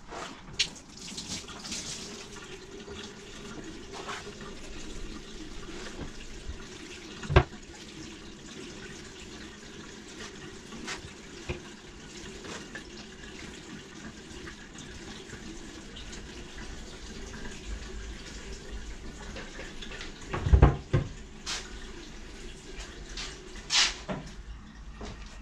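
Water running steadily from a tap into a sink, with occasional knocks and clatters of items being handled; one loud knock about seven seconds in and a cluster of knocks near the end.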